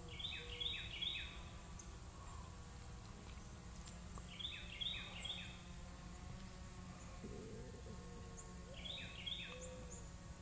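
A small bird singing a short phrase of about four quick falling notes, three times about four and a half seconds apart, over a steady low background hum.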